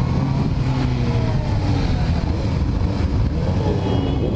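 Motorcycle engine running steadily under a heavy low rumble, its pitch easing slightly downward.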